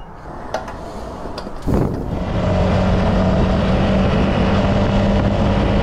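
A couple of light clicks, then, about two seconds in, a Honda CRF300L Rally's single-cylinder engine comes up loud and runs at a steady pitch under riding wind noise.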